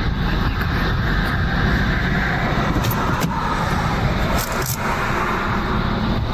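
Steady road-vehicle noise: a low rumble with a hiss that swells and fades, and a few light clicks around the middle.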